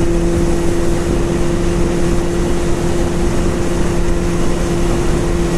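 Honda CBR600F4i's inline-four engine running at a steady, unchanging drone while cruising, with heavy wind noise on the microphone.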